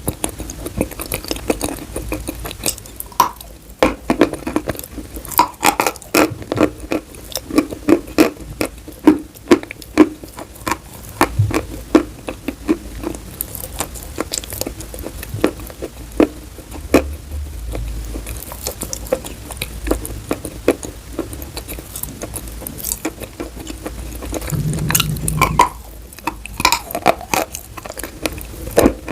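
Chalk being bitten and chewed: a rapid series of sharp, irregular crunches, several a second.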